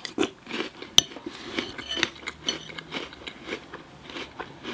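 A mouthful of Lucky Charms marshmallows in milk being chewed, with small irregular crunches and mouth clicks, and one sharp metal clink about a second in.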